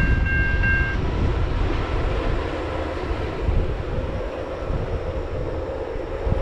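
Low rumble of a train moving away along the tracks, with wind buffeting the microphone. A level-crossing warning bell rings in quick repeated high dings and stops about a second in.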